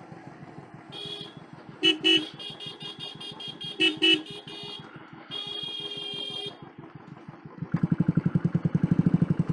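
Motorcycle horn honking: a short toot, then a rapid string of short toots, then one longer held note about five seconds in. Underneath, a Royal Enfield Bullet's single-cylinder engine keeps running, and its exhaust beat gets much louder near the end as the bike pulls on.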